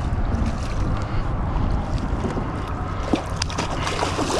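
Wind rumbling on the microphone over water sloshing against a kayak hull, with a couple of light knocks about three seconds in.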